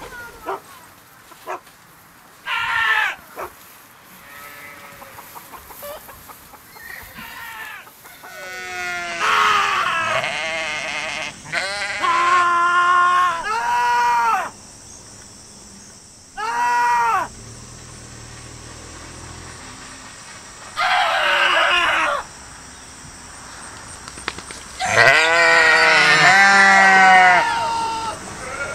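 Sheep bleating loudly, one call after another: a string of quavering bleats a second or two long each, with short gaps between, the longest and loudest near the end.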